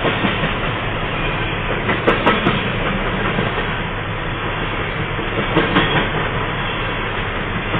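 A long train rolling past on the track: a steady rumble of wheels on rail, with a few clacks as the wheels cross rail joints.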